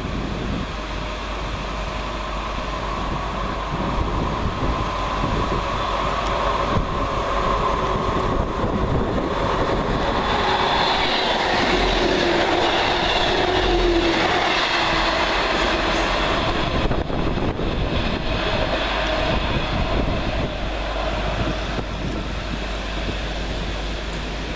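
Northern Rail Class 158 diesel multiple unit passing through at speed. Its sound builds over several seconds, is loudest about halfway as it rushes close by, with steady whining tones over the wheel and rail noise, then dies down.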